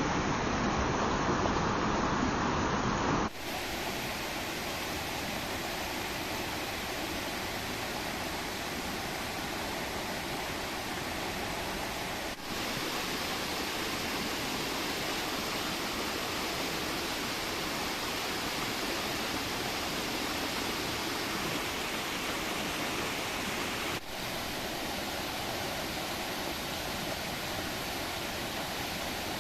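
Fast-flowing river water rushing steadily. The sound changes abruptly three times, about 3, 12 and 24 seconds in: the first change makes it quieter and hissier, and the later two are slight shifts.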